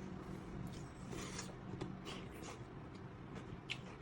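Soft mukbang eating sounds: chewing with scattered small clicks and brief scraping rustles as cooked sea snails are handled. A low steady hum of room tone lies under them.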